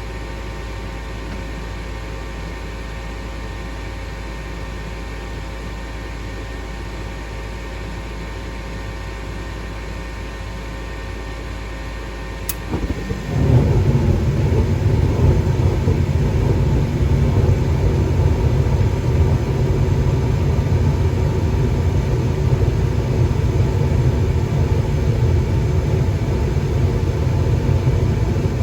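GMC gas furnace going through ignition. It begins as a steady hum with a few steady tones, then a short click sounds about halfway through. Moments later the burners light and the sound jumps to a loud, steady low rumble of the furnace running.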